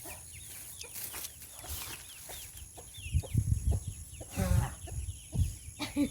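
Chickens clucking, with many short calls and one longer call about four and a half seconds in, over a steady high insect-like hum. Low dull thuds come and go during the second half.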